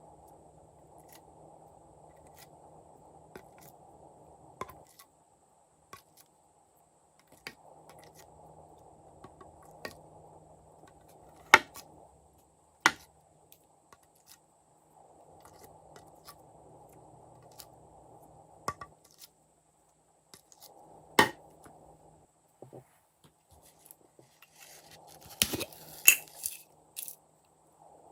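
Slime mixing by hand: scattered sharp clicks and knocks of a utensil and added items against the container, with a louder cluster of crackly clicks near the end, over a faint steady hum that comes and goes.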